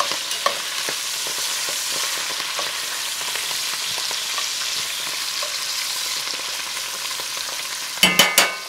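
Broccoli rabe stems sautéing in oil and garlic in an enameled cast-iron pot, with a steady sizzle and light clicks of metal tongs stirring against the pot. Near the end comes a brief, louder ringing clatter.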